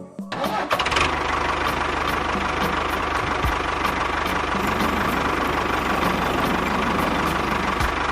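An engine comes up within the first second and then runs steadily at idle, with a fast, even firing pulse and a steady whine.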